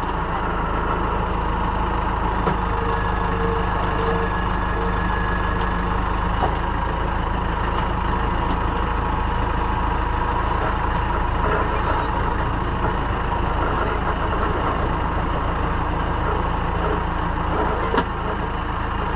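Semi truck's diesel engine running steadily, with a single sharp click near the end.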